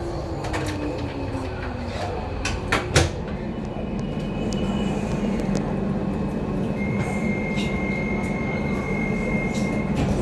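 Docklands Light Railway train heard from inside the car: the electric motor whine falls in pitch as the train slows. A few clicks and a sharp knock come about three seconds in, then a steady low hum with a thin high tone near the end.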